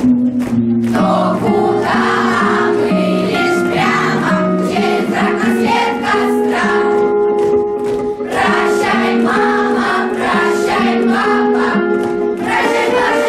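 A children's choir singing a song together in sustained, changing notes over instrumental accompaniment.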